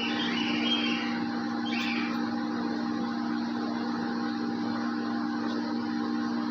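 A steady machine hum runs throughout, with a few short, high cockatiel chirps in the first two seconds.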